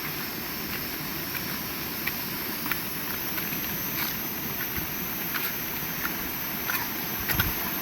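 Heavy rain falling steadily in strong wind, with scattered sharp ticks of individual drops hitting close by.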